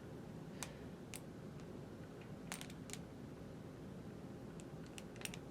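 A 2021 Carrier gas furnace's blower running, a faint steady low hum of air, with a handful of light clicks scattered over it.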